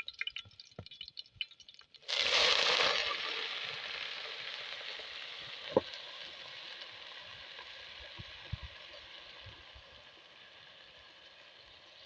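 Food going into a hot pan of oil: a sudden loud sizzle about two seconds in that slowly dies down, with a few light clicks before it and a single sharp knock midway.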